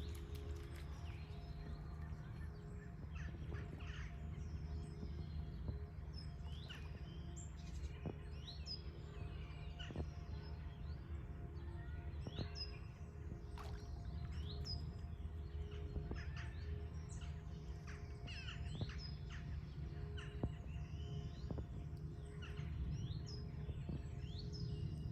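Small birds chirping: many short, quick calls scattered throughout, over a steady low rumble.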